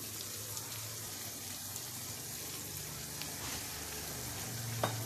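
Diced potatoes, onion and tomatoes frying in oil in a pan, a steady sizzle, with one light tap near the end.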